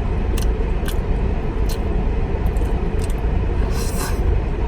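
Steady low rumble of a car's air conditioning running inside the cabin. A few small sharp clicks sound over it, with a brief rustle about four seconds in.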